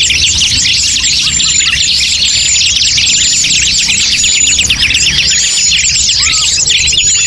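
Bird-lure recording of many small forest birds chirping rapidly over one another in a dense, unbroken chorus, with a few clear high whistles cutting through and a steady low hum underneath.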